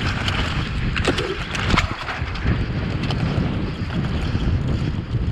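Downhill mountain bike rattling and knocking over a rocky trail at speed, with wind buffeting the microphone. Sharp knocks come throughout, loudest about a second in and again just before two seconds.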